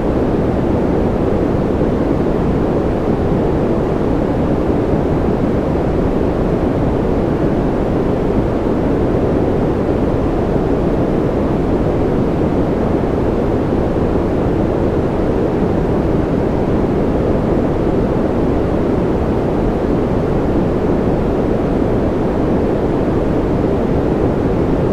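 Continuous white-noise sleep sound: an even, deep rushing hiss, muffled rather than bright, holding perfectly steady with no changes or separate events.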